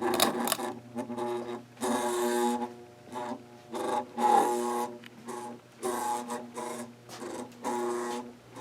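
A 1992 Bahama hugger ceiling fan motor running on low with a loud, pitched buzz over a steady hum, swelling and fading every couple of seconds. The fan has worn bearings with a lot of play, and the owner suspects a failing capacitor.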